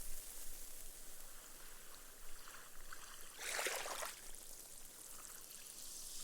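Small, gentle sea waves on a sandy beach: a steady fizzing hiss of foam soaking into the sand, with one short wash of a ripple breaking about halfway through.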